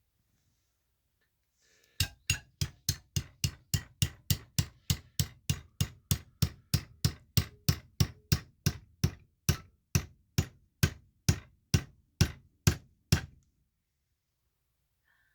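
A hammer striking a rock in a steady series of sharp, even blows, about two and a half a second and some thirty in all, to split the rock open along its layers to reveal a fossil. The blows start about two seconds in and stop about two seconds before the end.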